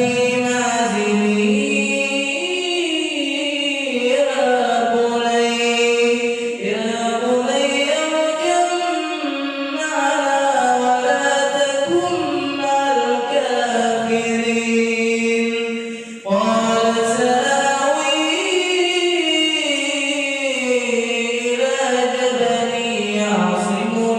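Unaccompanied melodic vocal chanting: a voice holding long notes that slide up and down, with a short break about 16 seconds in.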